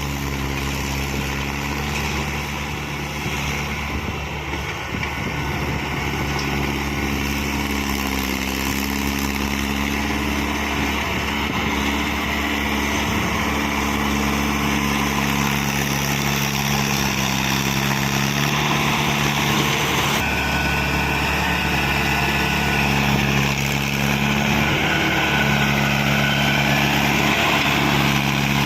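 Heavy diesel engine running steadily, its pitch dipping slightly now and then, growing gradually louder through the second half.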